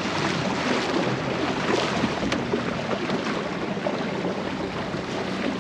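Wind and water noise aboard a small boat at sea, with a faint low steady hum underneath.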